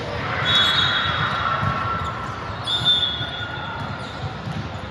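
Gymnasium noise during indoor volleyball play, with two brief high-pitched squeals: one about half a second in and another near three seconds in.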